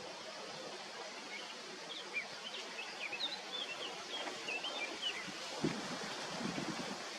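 Small birds chirping in a run of quick, short notes over a steady outdoor hiss, with a single low thump near the end.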